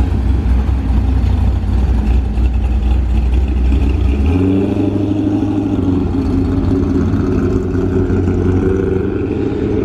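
Chevrolet C5 Corvette's 5.7-litre V8 running loud as it drives past, with a deep low note. About four seconds in the low note drops away and a steadier, higher engine tone from another passing car takes over.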